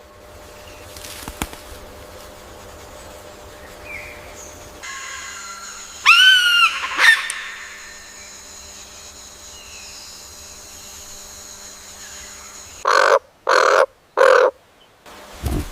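Bird calls over a low steady background: one loud arched call, rising then falling, about six seconds in, then three short loud calls in quick succession near the end.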